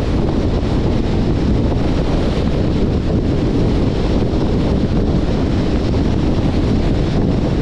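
Steady wind noise rushing over the microphone of a camera riding on a moving 2021 Jeep Compass, with the car's road noise underneath.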